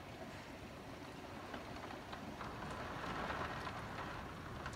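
Steady rain falling, an even hiss with scattered individual drops ticking close by; the hiss swells a little about three seconds in.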